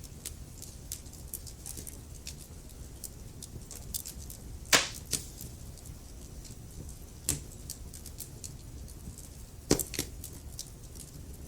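Wood fire burning in a fireplace: a steady low rumble of flames with frequent small crackles and a few louder pops, the loudest about halfway through and again near the end.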